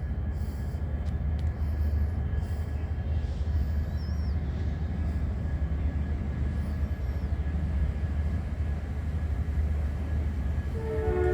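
Steady low rumble of a train at a railway station. A sustained pitched tone with several notes begins near the end.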